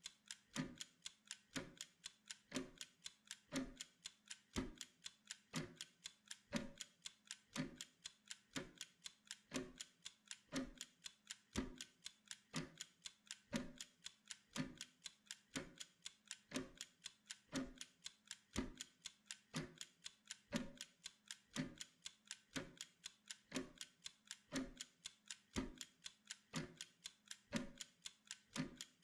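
Clock ticking steadily, about two even ticks a second, as the running sound of a pomodoro study timer.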